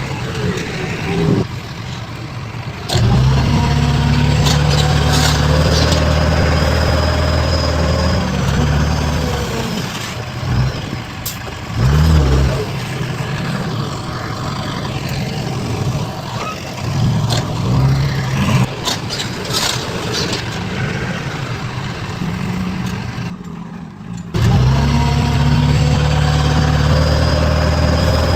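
Heavy diesel engines of construction machinery, such as bulldozers and dump trucks, running and revving under work. The sound changes abruptly about three seconds in and again near the end.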